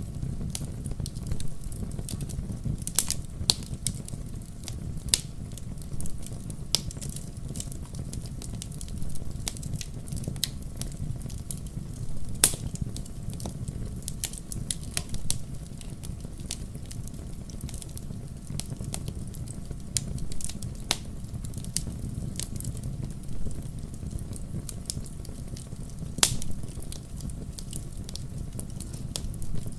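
Wood campfire burning with a steady low rumble and irregular crackles and pops, a few sharper snaps standing out.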